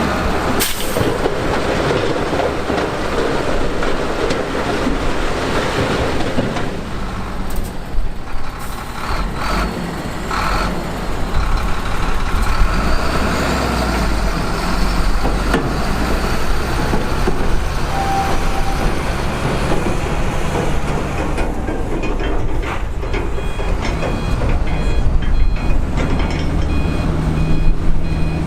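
Heavy diesel earthmoving machinery running under load, with a sharp clank about a second in. In the last third a backup alarm beeps in a steady repeating pattern while a machine reverses.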